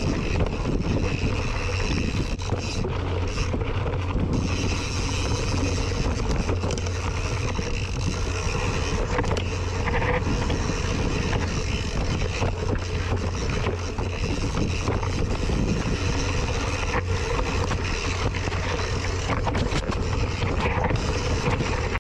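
A mountain bike ridden down a trail: wind buffeting the action-camera microphone over a steady rumble of tyres on dirt, with frequent clicks and rattles from the bike.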